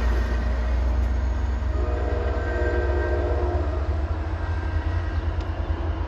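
Diesel commuter train passing with a heavy low rumble, its horn sounding once for about a second and a half about two seconds in.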